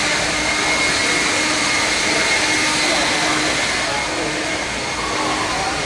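A steady whirring, rushing noise with two faint held tones, one low and one high, and no clear events.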